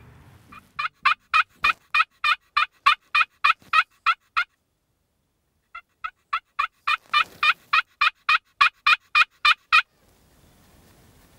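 Turkey yelping: two long runs of quick, evenly spaced yelps, about five a second, with a pause of over a second between them.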